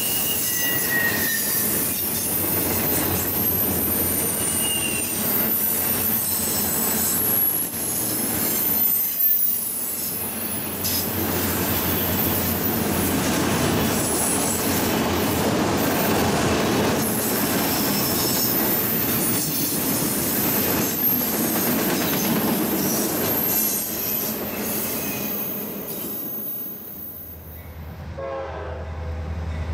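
Railroad cars rolling past on the track, a steady rumble with high-pitched wheel squeal. Near the end the rumble fades and a locomotive horn starts sounding.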